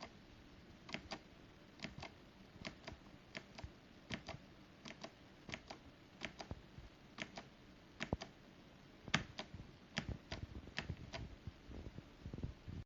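Clicky Hybrid Blue mechanical switches on a SteelSeries Apex 5 keyboard, with keys pressed one at a time at an unhurried pace. Each keystroke is a sharp click, often in quick pairs, a fraction of a second to a second apart.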